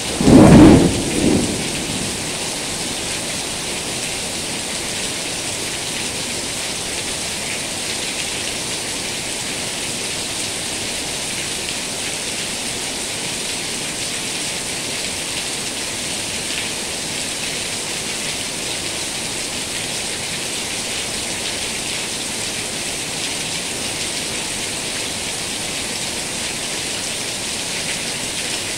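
Heavy rain falling steadily in a dense, even hiss. About half a second in, a single loud clap of thunder breaks over it and fades away within about two seconds.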